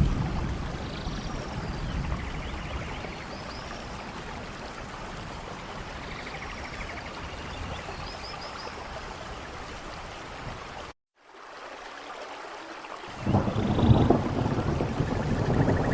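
Steady rainforest rain with thunder: a rumble fading out in the first couple of seconds, and a loud rolling rumble that starts about three-quarters of the way through. Faint short chirps sound over the rain in the first half, and the sound cuts out briefly about two-thirds through.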